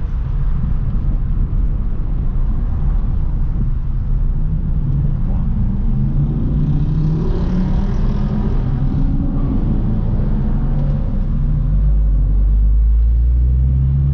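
Car engine and exhaust heard from inside the moving car, rising in pitch as the car accelerates, then settling, with a heavy low drone near the end.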